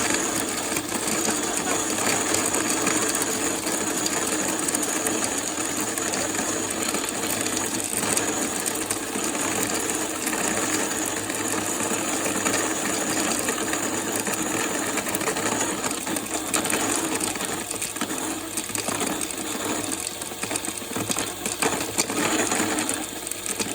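Electric burr coffee grinder running steadily as its burrs grind whole coffee beans at a medium-fine setting: a constant motor whine over a dense grinding rattle, growing slightly uneven near the end.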